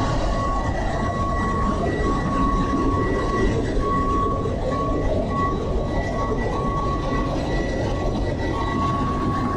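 Steady, loud din of a ship's engine room at sea, with the main engine, generators and auxiliary machinery all running. A high steady whine cuts in and out through the din.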